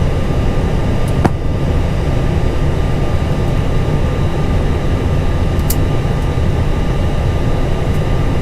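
Steady cockpit noise of an Airbus A320 on the ground, heard inside the cockpit with both engines idling just after start: an even low rumble with faint steady whine tones over it. There is one sharp click about a second in.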